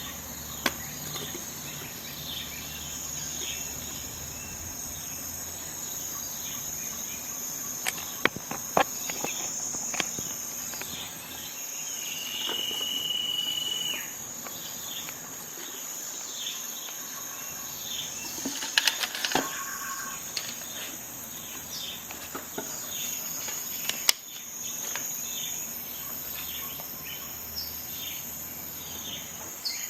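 A steady chorus of crickets, a constant high-pitched chirring, with several sharp clicks scattered through it and a short steady whistle-like tone near the middle.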